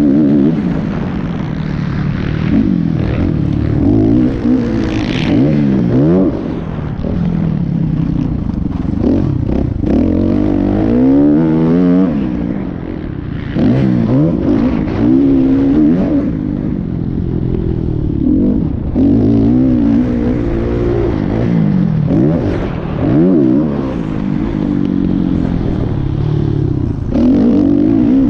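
Motocross dirt bike engines revving, their pitch rising and falling over and over with throttle and gear changes, at times two engines heard at once.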